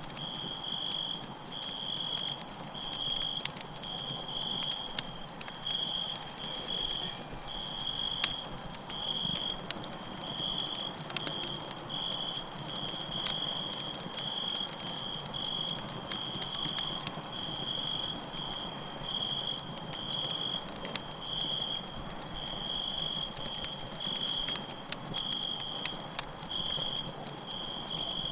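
Campfire crackling with frequent sharp pops over a soft hiss, and crickets chirping in a steady run of short, high pulses.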